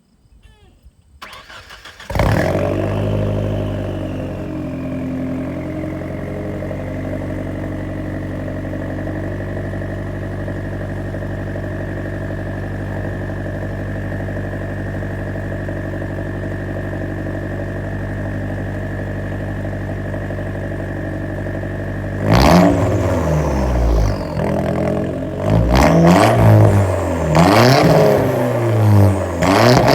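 Audi 1.8T turbocharged inline-four with the muffler deleted from its 2.5-inch exhaust, starting about two seconds in and settling into a steady idle with a steady high whine over it. Near the end it is revved repeatedly, each rev rising and falling quickly.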